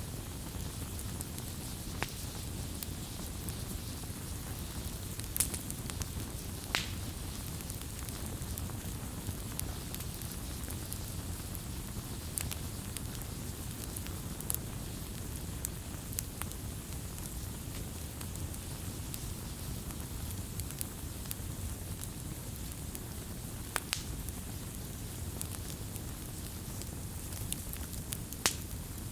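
Campfire burning: a steady low rumble of flames with scattered sharp crackles and pops from the wood, a few louder snaps among them.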